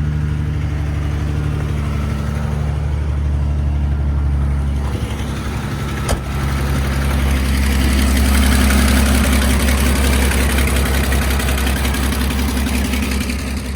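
Carbureted Ford 300 cubic-inch (4.9 L) inline-six running just after a cold start. Its note is steady at first; about five seconds in it turns rougher and more uneven. There is a single click about a second later. The rough running fits the owner's account that the cold engine starts to miss, as if running on only 2 or 3 cylinders, until it warms up.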